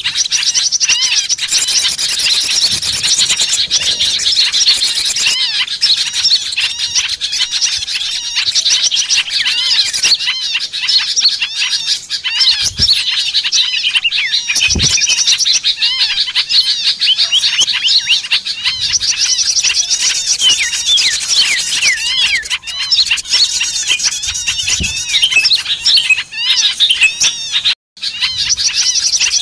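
Dense, noisy chorus of many small songbirds chirping and twittering over one another without pause, a bird-lure recording made to draw wild small birds down. The sound breaks off for a moment near the end.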